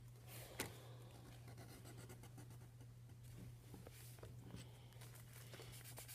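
Near silence, with the faint scratching of a marker colouring on paper and a low steady hum underneath. There is a single sharp click just over half a second in.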